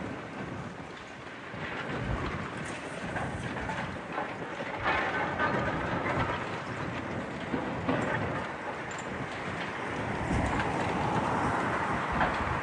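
Outdoor city din: a steady, noisy rumble with scattered irregular crackles and knocks, with wind buffeting the phone's microphone.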